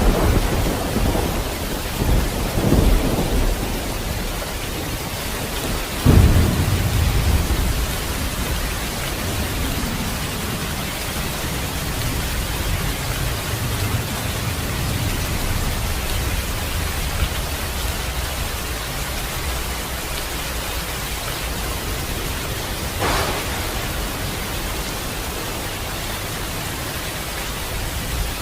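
Steady rain with thunder: low rumbles in the first few seconds, then a sudden thunderclap about six seconds in that rolls away over several seconds, leaving the rain's even hiss.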